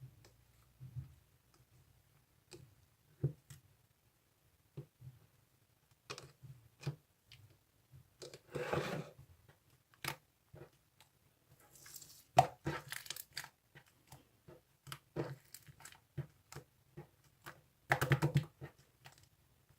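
Slime being handled: irregular sticky clicks, pops and squelches as it is pressed, poked and stretched, with busier squishing stretches about eight, twelve and eighteen seconds in.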